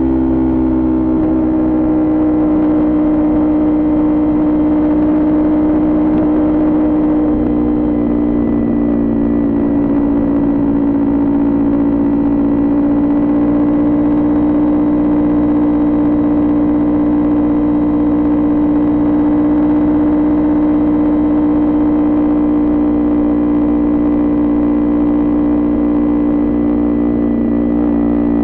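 Kawasaki Ninja 400 parallel-twin engine through an aftermarket Coffman exhaust, running at steady throttle while cruising; the engine note eases down slightly at the start, then holds nearly constant.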